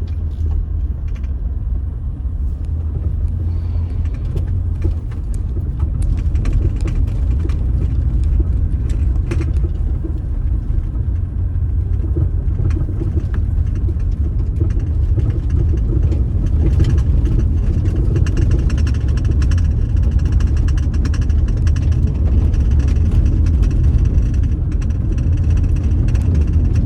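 Car driving on a dusty unpaved road: a steady low rumble of tyre and engine noise with scattered small ticks, growing slightly louder in the second half.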